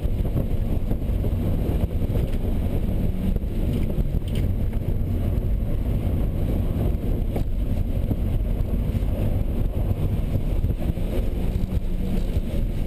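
2001 Audi A4 Quattro's engine driven hard through an autocross run, its pitch rising and falling as the driver works the throttle, with wind buffeting the microphone.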